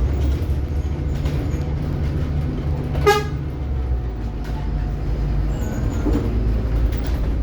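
Scania K360IB city bus under way, heard from inside: a steady low rumble from the engine and running gear. About three seconds in, one short high beep like a horn toot sounds.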